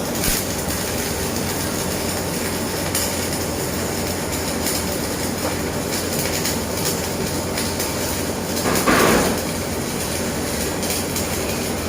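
Electric arc welding a fillet (corner) joint: a steady crackling hiss from the arc, which strikes as the sound begins, with a louder flare about nine seconds in.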